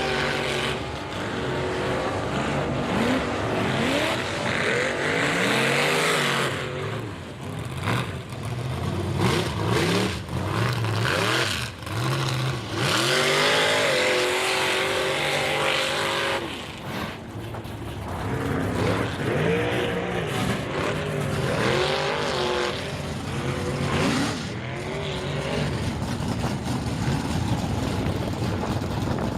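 Mega mud truck engine with open headers revving hard again and again, its pitch climbing and dropping several times, with brief lulls between pulls.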